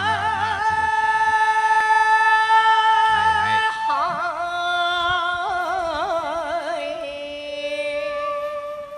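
Music: a singer holding long notes with a wide vibrato, moving to new notes a few times and fading out at the end.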